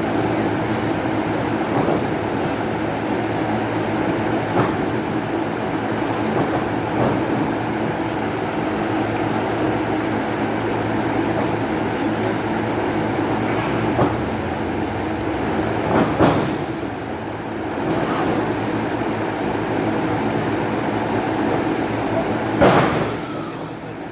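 Steady hubbub of a wrestling crowd in a hall, with a few sharp thuds from the ring spread through, the loudest near the end.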